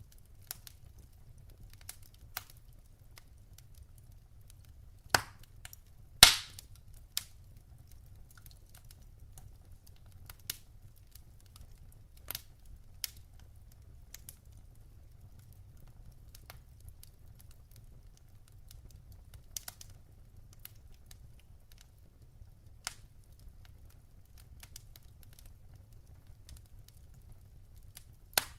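Wood fire crackling in a fireplace: burning logs give scattered sharp snaps and pops over a low steady rumble, with two loud pops about five and six seconds in and another near the end.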